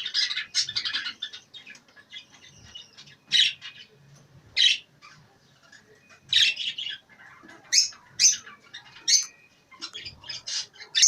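Many caged birds chirping and squawking: a dense chatter for the first second and a half, then a string of short, shrill calls every second or so.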